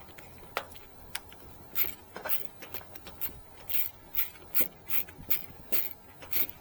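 A series of sharp clicks, about two a second, from a part or fitting being worked and twisted into place by hand.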